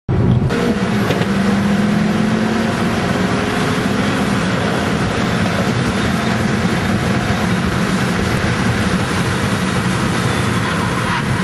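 Car engine running hard at speed, heard from inside the cabin with loud road and wind noise. The engine note rises over the first few seconds as the car accelerates, then holds steady.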